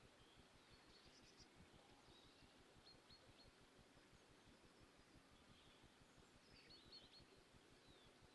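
Near silence: faint room ambience with a few small, high bird chirps now and then.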